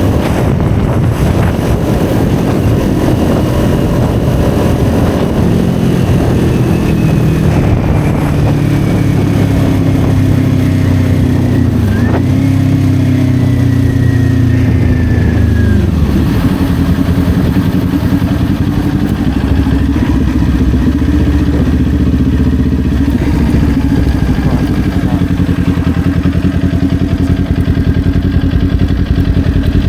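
Kawasaki Ninja 400's parallel-twin engine, heard from on the bike, dropping in revs as it slows, with a brief jump in revs about twelve seconds in. It then runs steadily at low revs.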